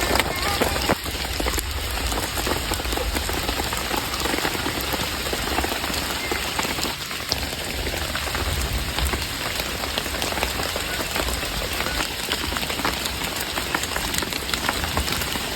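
Heavy rain falling steadily, a dense hiss made up of countless individual drop hits.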